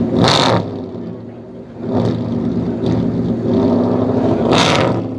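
Maserati Mostro Zagato V8 running, with a short loud burst of exhaust noise just after the start. The engine note falls away, then climbs back up to a second loud burst near the end.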